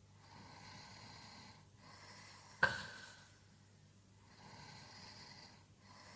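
A sleeper snoring: slow, noisy breaths, each a second or more long, and one sudden loud snort about two and a half seconds in that fades away over half a second.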